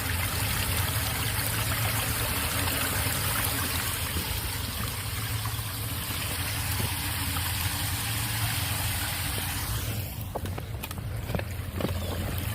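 Floodwater pouring steadily down a cleared storm drain. About ten seconds in, the higher part of the rush falls away, leaving a few clicks.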